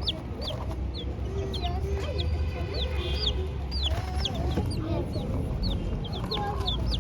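Young chicks peeping: many short, high calls that fall in pitch, several a second, over a low rumble.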